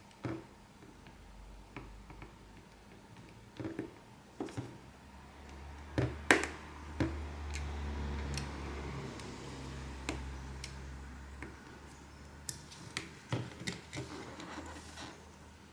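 Light clicks and taps of small repair tools working on a smartphone, irregular, with the sharpest pair about six seconds in. A low steady hum runs under them from about six to twelve seconds in.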